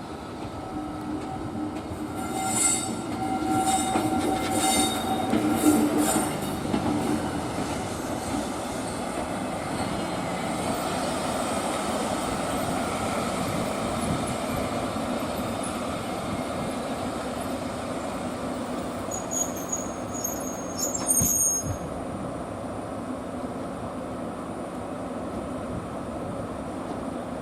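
Electric locomotive moving slowly through a freight yard, with a steady rumble of running. Its wheels give high-pitched squeals a few times in the first six seconds and again briefly about twenty seconds in.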